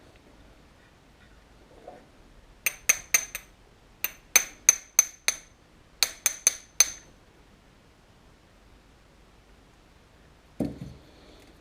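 A run of sharp metal-on-metal taps with a ringing tone, about fourteen in three quick groups, followed near the end by a single duller knock.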